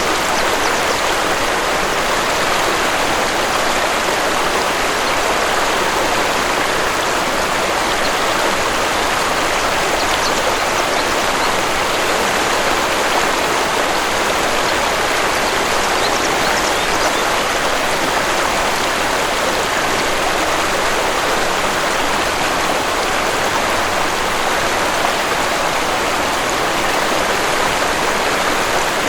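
Waterfall, water rushing and splashing in a steady, unbroken noise.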